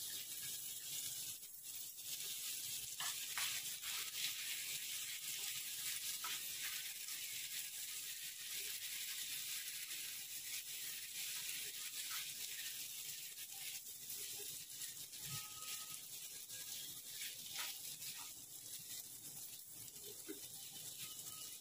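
Samak rice (barnyard millet) frying in hot ghee in a non-stick pan: a faint, steady sizzle, with a few light scrapes and taps as a spatula stirs it.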